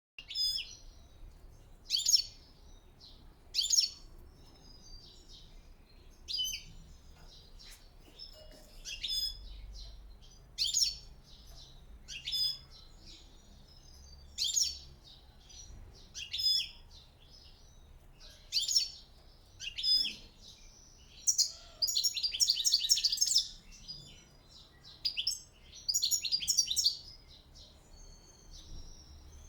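European goldfinches calling in short, high chirps about every two seconds, breaking into longer runs of rapid twittering song about two-thirds of the way in and again shortly after. The uploader calls the birds agitated.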